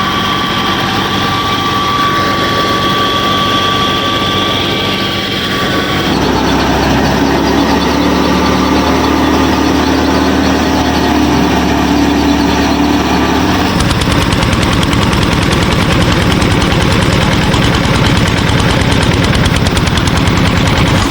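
Machine motors running steadily. The sound changes abruptly twice: a high whine for the first six seconds, then a lower hum, then a fast even pulsing like a small engine from about fourteen seconds in.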